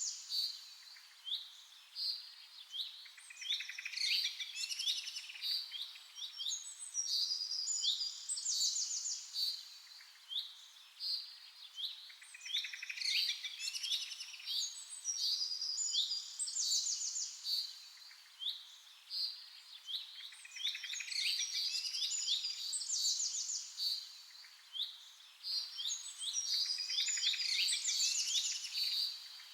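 Small songbirds chirping and twittering: quick, high, sweeping chirps and rapid trills, with similar phrases coming back every several seconds.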